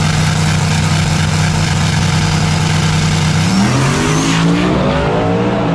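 Drag-racing pickup trucks, a big-turbo Chevy and an all-wheel-drive Ford F-150, with engines held at a steady high rev on the line. About three and a half seconds in they launch, and the engine pitch climbs as they pull away.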